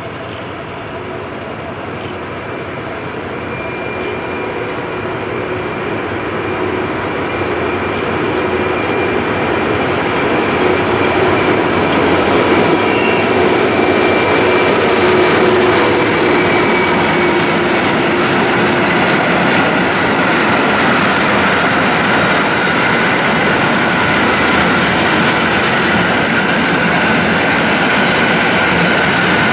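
SM42 diesel locomotive approaching and passing at low speed, its engine growing steadily louder over the first half. A train of ballast hopper wagons then rolls past with a steady rumble of wheels on rail, with a high steady tone over it in the second half.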